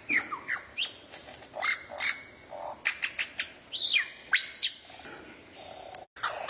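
A songbird calling: a string of sharp chips and arched whistled notes that sweep up to a high pitch and fall again. The sound cuts out briefly near the end.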